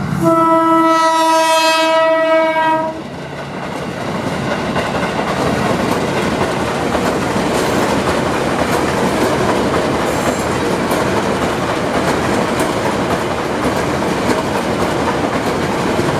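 KRL Commuter Line electric train sounding one steady horn blast of about three seconds as it approaches. The steady noise of its wheels running over the rails follows as the cars pass.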